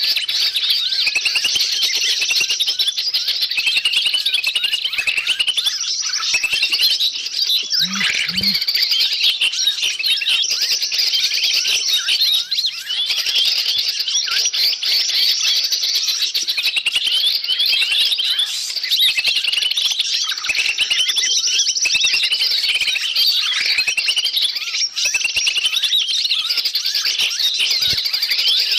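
Bird-lure recording of many small wild birds chirping and chattering at once in a dense, unbroken noisy chorus of quick high calls and trills, used to draw wild forest birds in.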